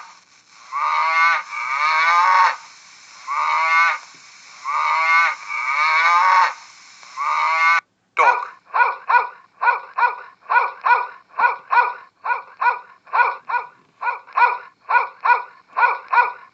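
Recorded animal calls. First about five long, drawn-out calls, each about a second. Then, from about eight seconds in, a different animal gives a fast run of short honking calls, about two a second.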